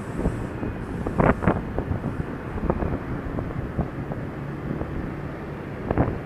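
Wind buffeting the action camera's microphone while riding a Honda Dio scooter, with the scooter's small engine running underneath. A few sharper thumps, the loudest about a second in.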